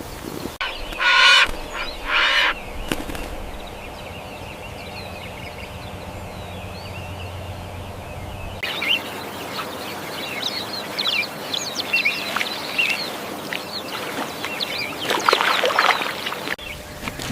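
Poultry calling: two loud calls about a second apart near the start, then, after an abrupt cut, a run of short chirps and scattered calls with a louder flurry near the end.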